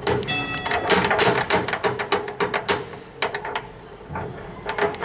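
Rapid mechanical clicking and clacking from an old tram's floor-mounted foot bell being worked, with no ring, because the bell is jammed. The clicks come in a quick run for about three and a half seconds, pause, and start again near the end.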